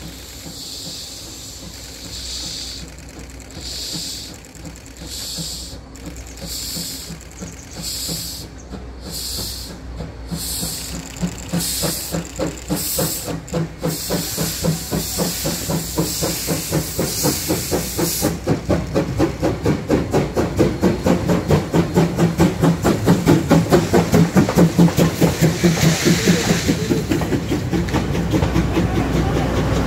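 CK124 steam locomotive, a JNR C12-class tank engine, starting a train away: hissing exhaust chuffs come about one a second at first, then quicken to a rapid beat. The sound grows louder as the locomotive draws near.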